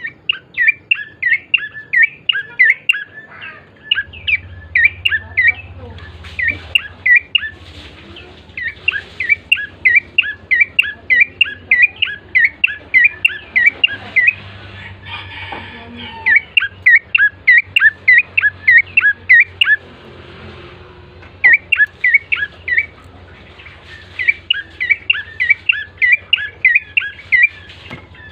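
Prenjak coki songbird calling: bouts of rapid, loud, sharp chirps at about three a second, with short pauses between bouts, over a faint low hum from about four seconds in. This is a lure call used to prompt other birds of the same kind to sing.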